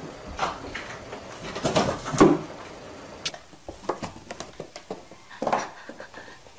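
A cat knocking about in and against cardboard boxes: several dull thumps, then a run of quick light taps and scuffs as a cat with a box stuck on its head scrambles across a hard floor.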